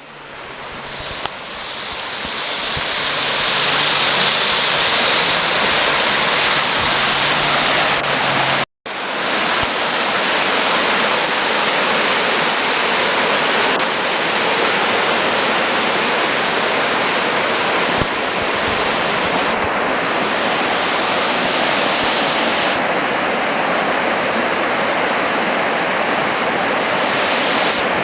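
Waterfall rushing, a loud steady roar of falling water that swells in over the first few seconds. It cuts out for a moment about nine seconds in, then carries on unchanged.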